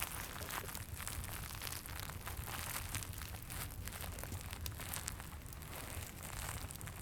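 Dense, irregular crinkling and crackling of a crinkly Santa figure being handled and squeezed, over a steady low fireplace rumble.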